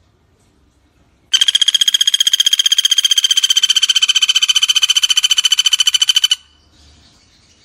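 Common flameback woodpecker giving one long, fast rattling call of about a dozen even notes a second, lasting about five seconds and stopping abruptly.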